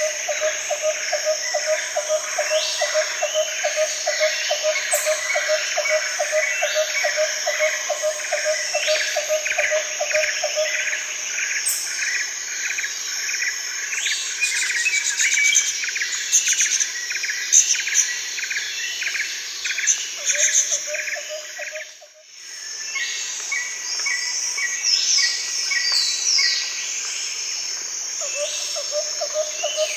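Dense jungle chorus of many birds chirping and calling over insects trilling, with a fast pulsing trill that fades in and out. The whole chorus drops out briefly about two-thirds of the way through.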